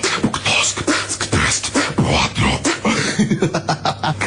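Beatboxing: a fast run of percussive mouth clicks, pops and short voiced bass sounds.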